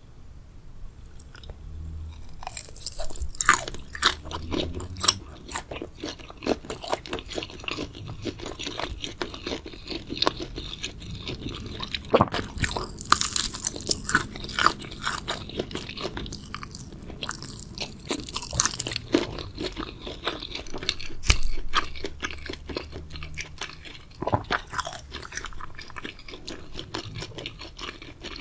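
Close-miked chewing of crunchy food, with many irregular crisp crunches and a few louder bites.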